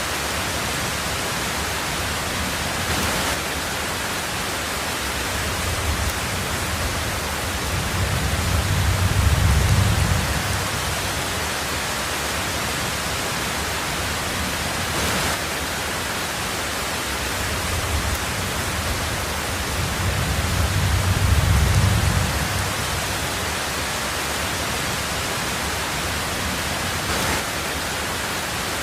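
Heavy rain falling steadily on a tin roof as an even hiss, with a low roll of thunder swelling and fading twice, about a third of the way in and again about two-thirds in.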